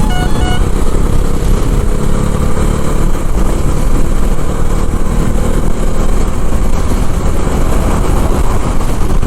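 Wind buffeting the rider's microphone at highway speed, with a motorcycle engine running steadily underneath. Two short tooting notes sound right at the start.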